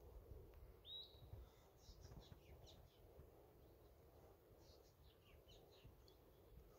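Faint bird calls over near silence: a short rising whistle about a second in, then scattered brief high chirps.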